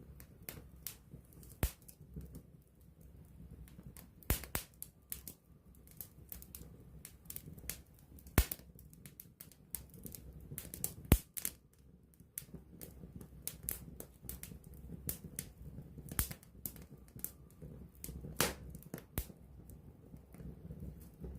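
Wood fire crackling and popping: irregular sharp snaps from burning logs, a few louder pops, over a soft low rush of the flames.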